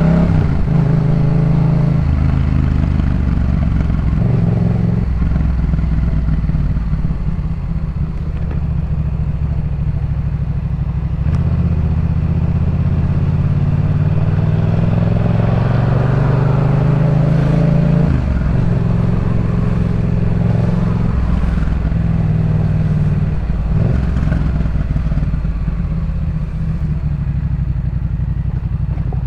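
Yamaha MT-07 parallel-twin engine through a Jeskap K4 full exhaust system, ridden through the gears. The revs climb and then drop sharply at each gear change, with the longest pull about two-thirds of the way through.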